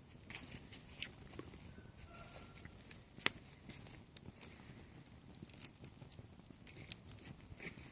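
Irregular crackles and snaps of dry wood, twigs or leaves, a few a second, with a sharper, louder snap about three seconds in.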